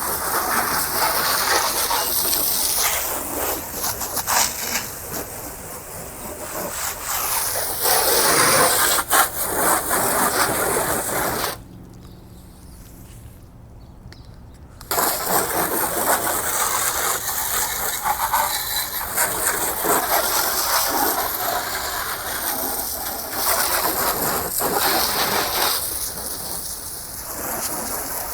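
Pressure washer spraying water onto a car, a steady hiss that stops for about three seconds midway before starting again.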